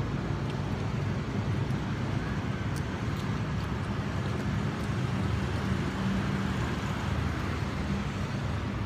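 Steady low droning hum and rumble with a few faint ticks.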